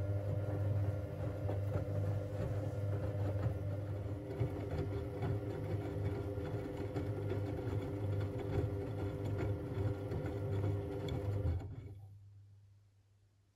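Siemens Siwamat 6143 washing machine running its wash action in a boil wash: a steady motor hum with the laundry tumbling in the drum. Near the end the motor stops and the sound winds down over a second or so.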